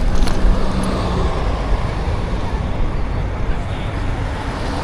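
Steady street traffic noise with a strong low rumble.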